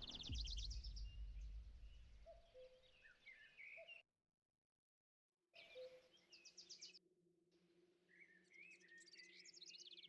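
Faint birdsong: repeated high chirps and quick trills over a low background hush. It cuts out completely for about a second and a half, about four seconds in.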